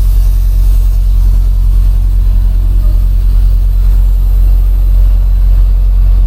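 Semi truck's diesel engine running steadily at low speed, a loud even low rumble heard from inside the cab.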